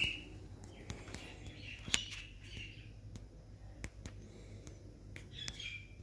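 Birds chirping in a few short calls, with scattered sharp clicks in between.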